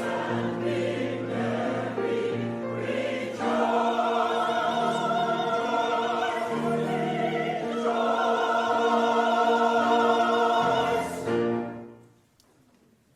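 Church choir singing long held chords; the final chord is released about twelve seconds in, leaving near silence.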